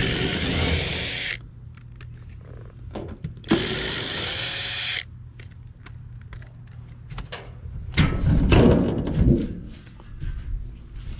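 Cordless drill/driver running twice in short whining bursts of about a second and a half each, as it works screws on the condenser unit. Near the end comes a loud cluster of knocks and rattles.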